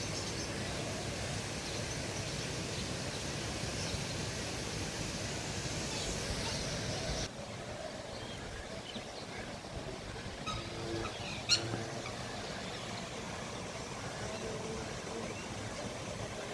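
Outdoor park ambience: a steady background hiss with faint, scattered small-bird chirps. The background drops abruptly about seven seconds in, and one short sharp chirp stands out a few seconds later.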